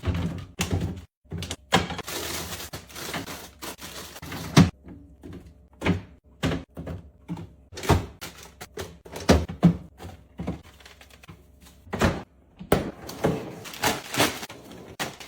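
Groceries being put into a refrigerator: a run of irregular thunks and knocks as containers are set on the shelves and the door and drawers are handled, with a stretch of packaging rustle about two seconds in.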